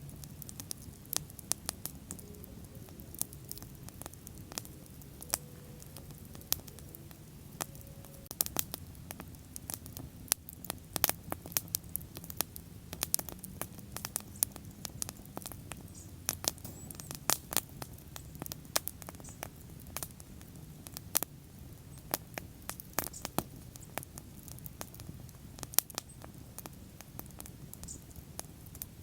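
Wood bonfire crackling: irregular sharp pops and snaps over a low, steady rumble of the burning flames.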